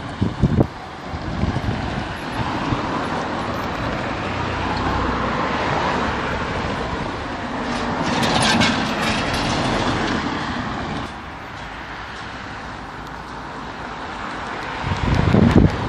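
A train passing over the level crossing. The rushing noise builds to its loudest about eight or nine seconds in, then falls away suddenly at about eleven seconds. Wind buffets the microphone near the end.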